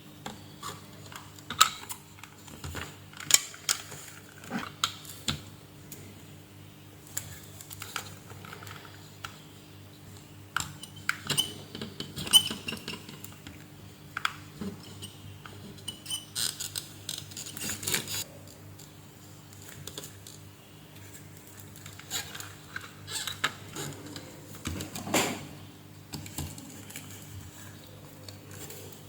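Scattered clicks and light metallic clinks of small tools and parts being handled, over a steady low hum.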